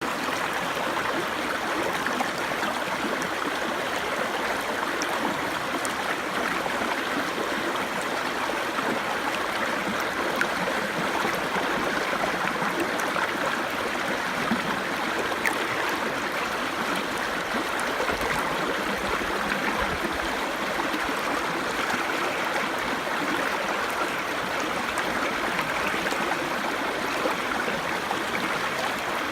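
Small brook babbling: a steady rush of running water with faint little splashes and gurgles scattered through it.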